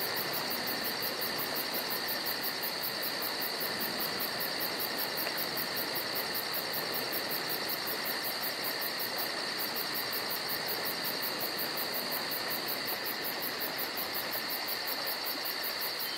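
Steady chorus of insects: a constant shrill buzz with a fast, even pulsing higher up, over a soft background hiss.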